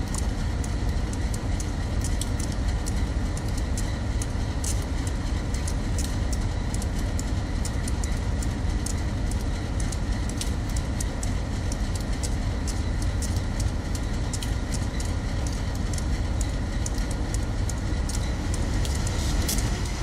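Train rolling past close by: a steady low rumble with frequent sharp clicks from the wheels on the rails.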